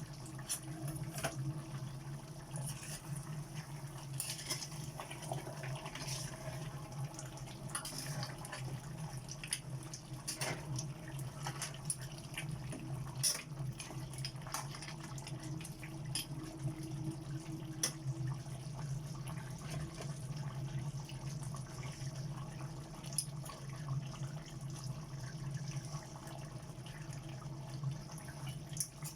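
Water and liquid sounds, with many scattered light clicks over a steady low hum.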